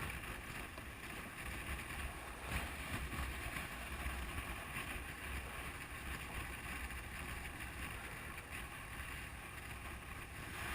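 Wind rushing over the camera's microphone on a moving motorcycle, with the low steady drone of the Honda CB500F's parallel-twin engine at cruising speed underneath.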